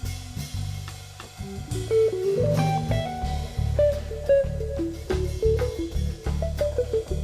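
Jazz trio of guitar, cello and drum kit playing, with a moving melodic line over sustained low notes and steady drum strokes; the music grows louder about two seconds in.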